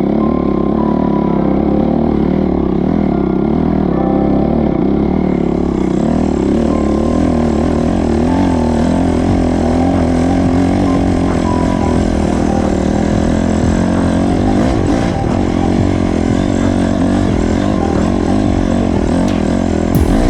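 Honda CRF250R dirt bike's four-stroke single-cylinder engine running as the bike is ridden, its pitch rising and falling with the throttle.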